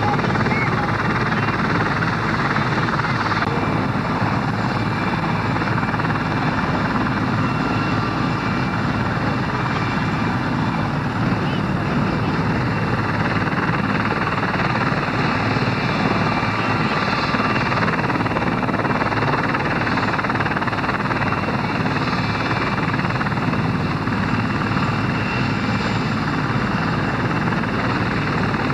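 Military helicopter running close by: a loud, steady noise of rotor and turbine engine that does not let up.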